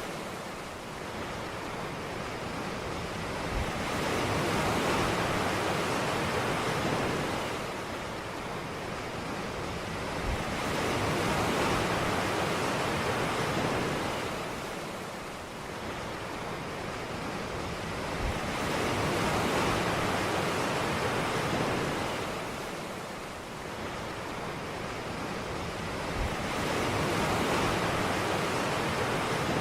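Ocean waves breaking on a beach. Each wave swells and washes back about every seven to eight seconds, with a soft low thump as it breaks.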